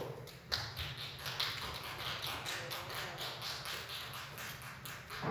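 Hands clapping in a quick, even run of about five claps a second, after a single thump at the start.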